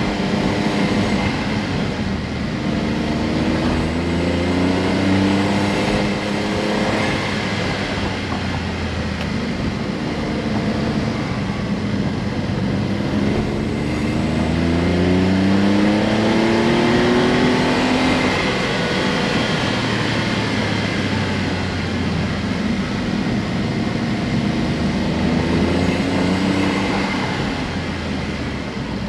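Honda S660's turbocharged 660 cc three-cylinder engine running under way, its note rising in pitch several times as the car accelerates, the longest climb past the middle, over steady road noise.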